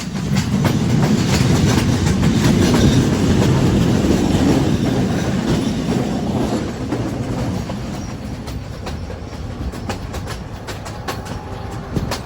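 Train running along the track, its wheels clattering over rail joints with a steady rumble. The rumble is loudest in the first half and eases off after about seven seconds, leaving the clicks of the wheels clearer.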